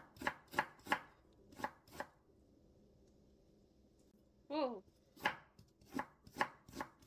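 Kitchen knife chopping Korean radish into julienne on a cutting board. There is a quick run of sharp chops, a pause of about three seconds, then more chops.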